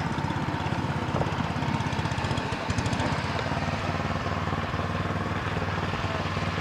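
Snow blower's small engine running steadily, with a fast, even chugging.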